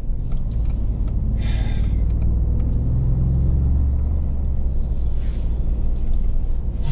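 Pickup truck's engine and road rumble heard from inside the cab while driving; the engine note rises and grows louder about three seconds in, then eases.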